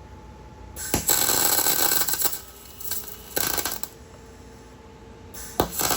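Arc welder crackling and sizzling in three bursts, a long one about a second in, a short one midway and another near the end: a nut being welded onto a snapped exhaust stud to extract it.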